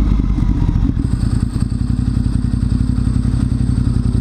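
Motorcycle engine running at a steady speed with an even, rapid pulsing beat.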